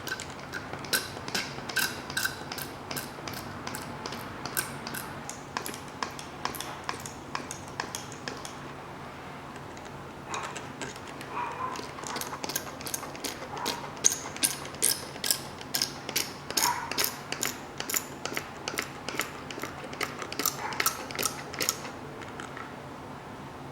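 Ratchet wrench clicking as it is worked back and forth. The clicking comes in two runs, with a pause of about two seconds near the middle.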